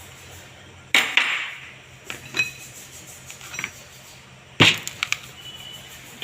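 Metal parts of a dismantled power steering rack knocking and clinking together, handled or set down on a work surface: about half a dozen sharp strikes, some ringing briefly, the loudest about four and a half seconds in.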